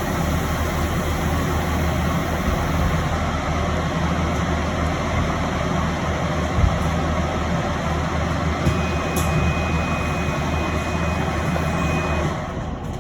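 An electric bus in motion, heard from inside the cabin: steady road and tyre noise over a low hum. A single thump comes about six and a half seconds in, and a thin steady high tone sounds for a few seconds near the end, after which the noise eases slightly.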